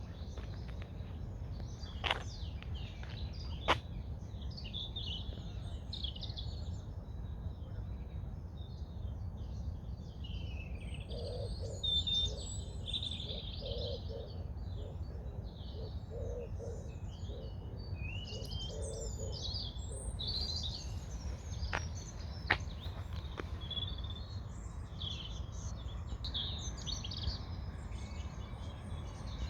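Several songbirds singing and chirping over a steady low outdoor rumble, with a lower call repeated for several seconds midway and a few sharp clicks.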